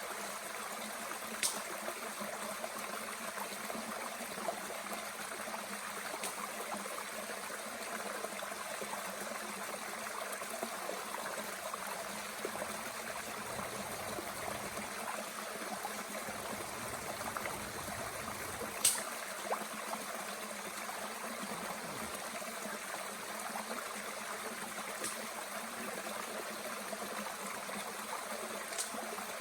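A mountain stream running steadily, with a few sharp crackles from a small wood fire burning in a Bushbox stove; the loudest crackle comes about two-thirds of the way in.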